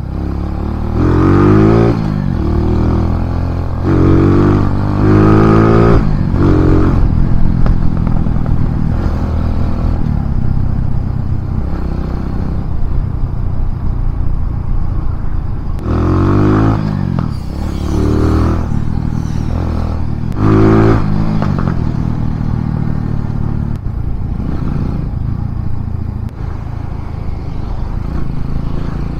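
Kawasaki W175's single-cylinder engine, breathing through a 30 mm flatslide carburetor, being ridden hard: the revs climb in three quick pulls through the gears early on, settle to steady running, then climb in two more pulls past the middle.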